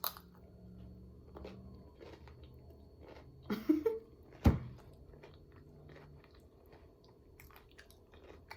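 A person chewing food close to the microphone, with small wet mouth clicks throughout and two louder crunching or knocking sounds about three and a half and four and a half seconds in.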